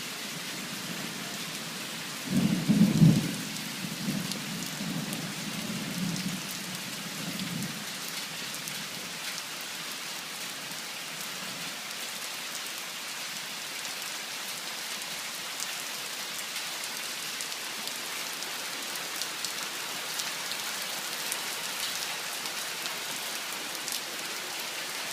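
Heavy downpour of rain hissing steadily, with a thunderclap about two seconds in that rumbles and fades away over the next five seconds.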